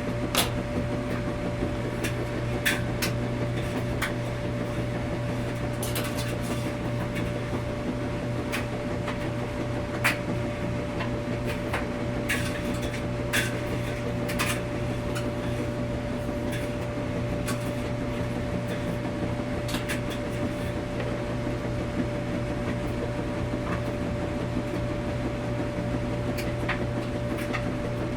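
Washing machine running with a steady hum and a constant mid-pitched tone, with irregular light clicks and knocks scattered over it.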